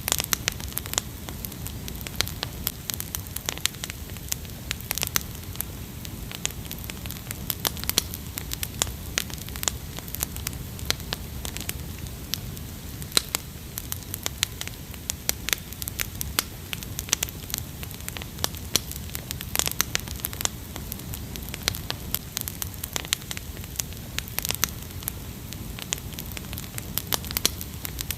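Wood fire crackling: frequent irregular pops and snaps over a low steady rumble.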